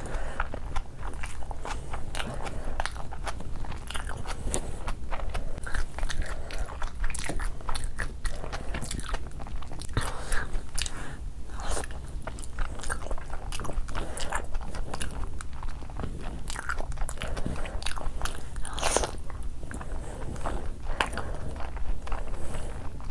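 Eating sounds: chewing and biting mouthfuls of fried rice and curried mutton shank eaten by hand, a dense, irregular run of short clicks, over a low steady hum.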